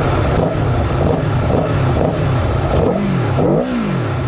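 Aprilia Tuono V4 motorcycle's V4 engine on its stock exhaust, running just after start-up and being blipped on the throttle, with two quick revs near the end where the pitch rises and falls.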